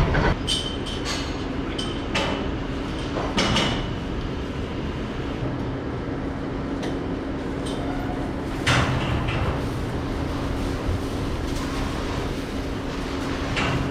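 A machine running with a steady hum, broken by several short, sharp rustling or clattering bursts.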